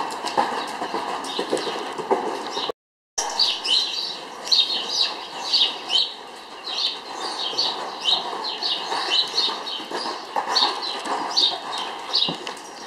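Small birds chirping over and over, quick high chirps several a second, with soft hoofbeats of a horse on sand footing underneath. The sound drops out for a moment about three seconds in.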